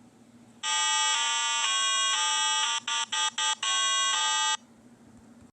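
A buzzy electronic tone playing a short stepwise melody for about four seconds, broken into a few quick blips near the middle.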